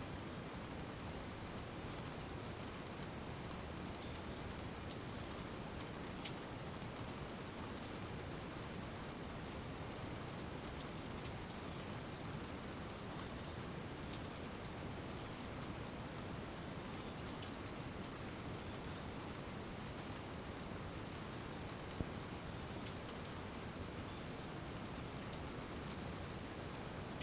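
Steady rain falling, with scattered light drip ticks and one sharper tap about three quarters of the way through.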